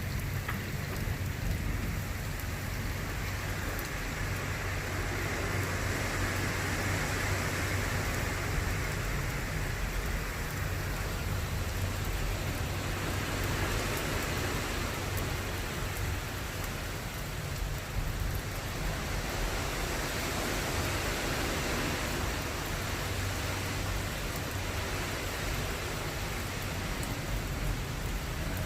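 Steady rain falling: a continuous even hiss with a low rumble underneath.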